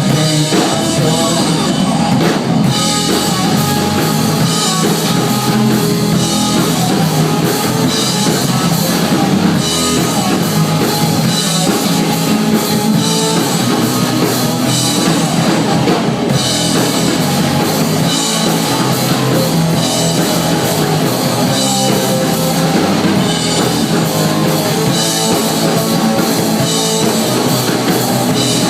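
A live rock band playing a mostly instrumental passage, drum kit and guitars, steady and loud.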